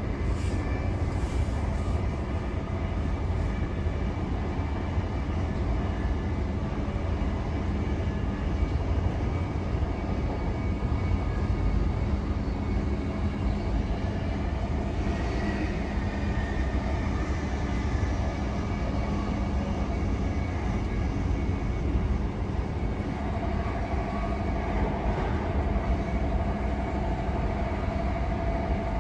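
c2c electric train running at speed, heard from inside the carriage: a steady rumble of wheels on track with a hum of steady tones. Near the end a higher steady tone joins in.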